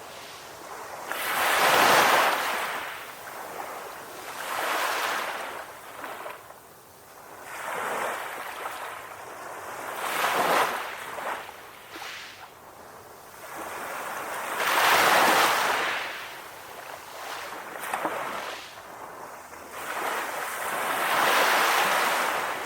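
Calm ocean waves washing in, a rush of surf swelling and falling away every few seconds. The strongest waves come at about 2, 15 and 21 seconds in.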